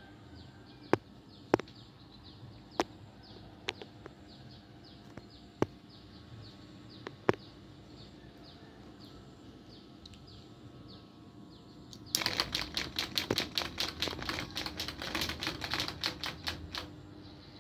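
Hattasu FC08-50 mini ceiling fan running with a steady hum and a light regular ticking, with several sharp single clicks in the first half. About two thirds of the way through comes a rapid clatter of many strokes a second, lasting about five seconds, the loudest sound here.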